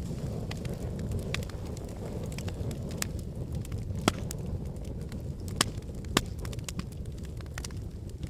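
Wood logs burning in a fireplace: a steady low rumble of flames with scattered sharp crackles and pops, three louder pops about four, five and a half and six seconds in.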